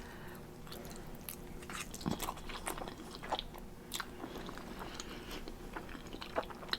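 A person chewing Samyang 2X Spicy instant noodles close to the microphone: soft, irregular wet mouth clicks and smacks.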